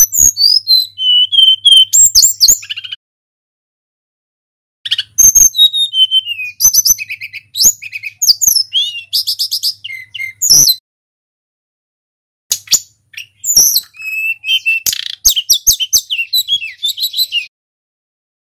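Tledekan gunung, a small flycatcher, singing in three bouts of varied clear whistled phrases with falling notes and fast trills, separated by a couple of seconds of silence.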